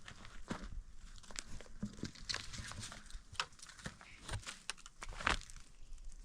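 Irregular clicks, knocks and rustling, with a few sharp knocks through the middle and the loudest about five seconds in.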